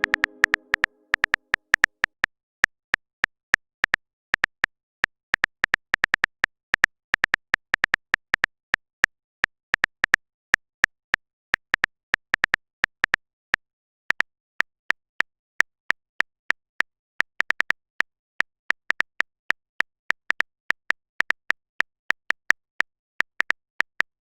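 Phone-keyboard typing sound effect: quick, irregular clicks, a few a second, as a message is typed out.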